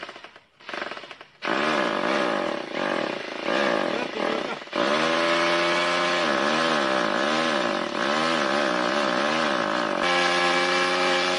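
Motorcycle engine noise starting about a second and a half in, revving at first, then a steady drone whose pitch wavers up and down a little more than once a second, settling on an even note near the end.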